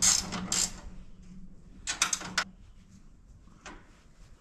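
Short bursts of metal clanking and rattling, about two seconds apart, over a steady hum that stops about two and a half seconds in.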